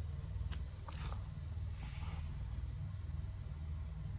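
Diesel truck engine idling with a steady, pulsing low rumble, with a few short clicks near the start and a brief hiss about two seconds in.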